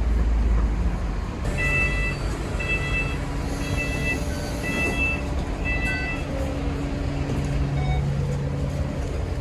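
Diesel bus engine running with a steady low rumble. About a second and a half in, an electronic beep sounds five times, about once a second, then stops.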